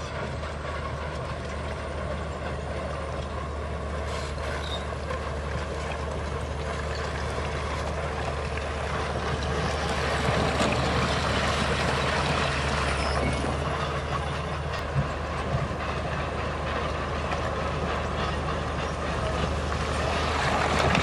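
Heavy diesel engine of earthmoving machinery running steadily, growing somewhat louder about halfway through, with a couple of short knocks near the end.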